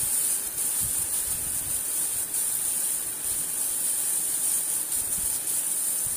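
Chopped onion, tomato and chilli sizzling steadily as they fry in oil in a pot, a continuous high hiss.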